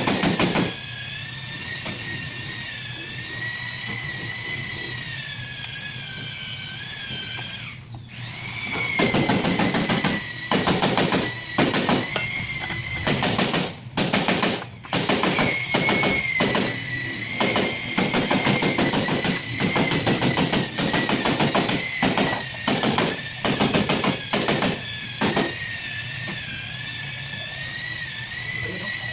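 A machine running with a steady high whine that wavers slightly in pitch. From about nine seconds in until near the end, it is broken by many short, loud bursts of noise.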